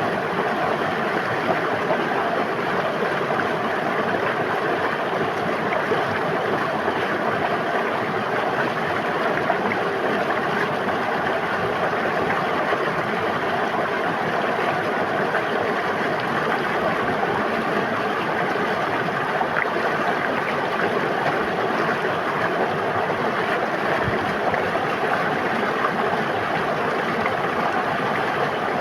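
A river stream flowing and babbling over rocks, a steady, even rush of water.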